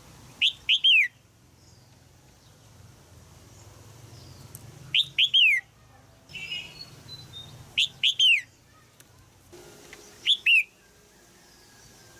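Red-whiskered bulbul calling: four short, loud bursts of about three quick downward-sweeping notes, a few seconds apart, with fainter chirps between.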